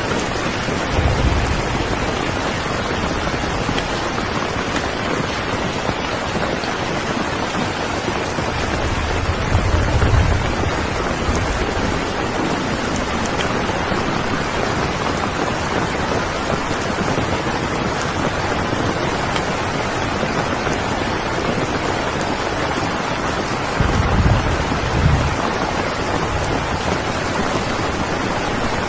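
Steady heavy rain, with brief low rumbles of thunder about a second in, around ten seconds in, and twice near the end.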